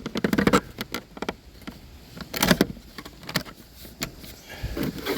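Hands handling cables inside an equipment box: scattered clicks and knocks, with two louder rubbing scrapes, one at the start and one about two and a half seconds in.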